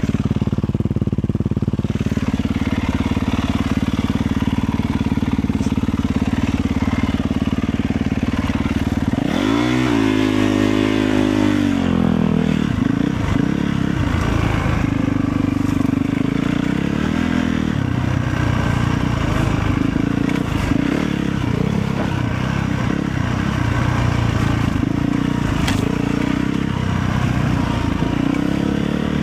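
Motorcycle engine running steadily under way, with the revs rising and falling about ten seconds in.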